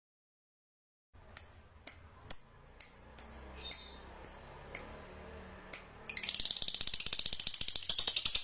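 Songbird calling: a run of sharp, short high chirps about half a second apart, then from about six seconds a fast, continuous high trill that grows louder near the end.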